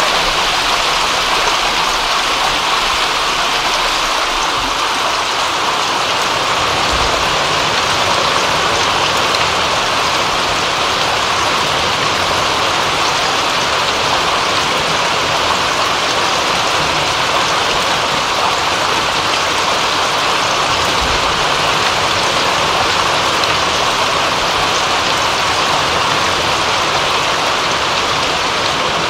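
Steady rain falling, a dense, even hiss of drops with no change in intensity.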